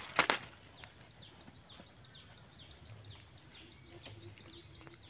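A single sharp knock just after the start, then a bird calling in a quick series of short, high, falling chirps, about three a second, over a steady high insect whine.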